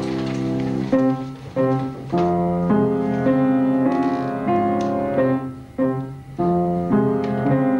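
Piano playing an instrumental passage: a held chord for about the first second, then a string of chords that change roughly every half second.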